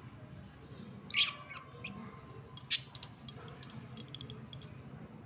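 Budgerigars chirping: two loud, sharp chirps about a second and a half apart, then a run of softer short chirps.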